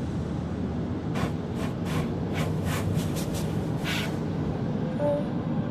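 Car wash heard from inside the car's cabin: a steady low rumble with a quick series of short hissing bursts, as water spray hits the car.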